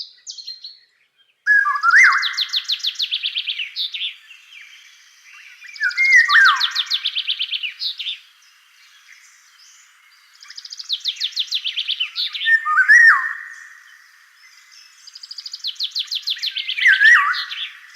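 A bird singing the same phrase four times, every four or five seconds: each phrase is a fast run of high chirps, about ten a second, over a lower slurred whistle.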